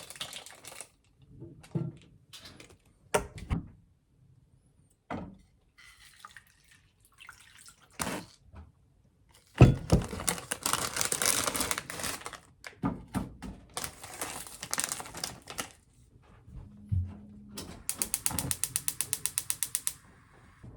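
Household handling sounds: scattered clicks and knocks, two spells of rushing, water-like noise in the middle, and a fast, even run of ratchet-like clicks near the end.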